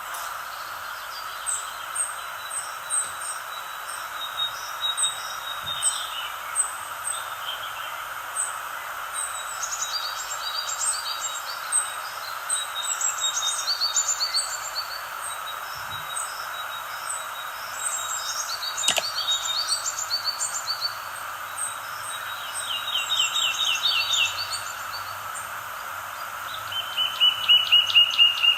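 Several small songbirds chirping and singing over a steady background hiss, with quick high chirps and short trills throughout. Near the end one bird gives a louder, fast trill.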